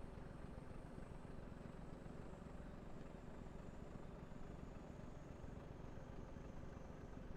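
Scania diesel engine running steadily at a constant low drone, with a faint high whine that slowly falls in pitch.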